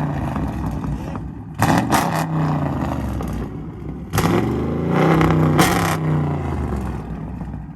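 Muscle-car V8 engine revving hard in several surges, its pitch rising and falling.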